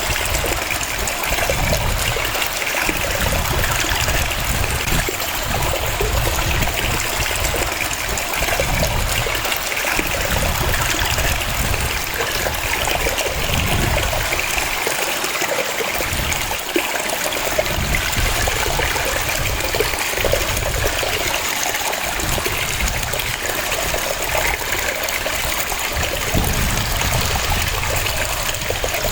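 Waterfall cascading: a steady rush of falling and splashing water, with the low rumble swelling and easing every second or two.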